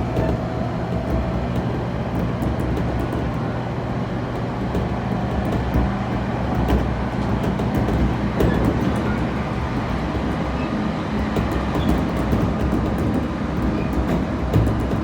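Running sound heard inside a JR Kyushu 811 series electric multiple unit: a steady rumble of wheels on rail with a steady low hum and a few faint clicks.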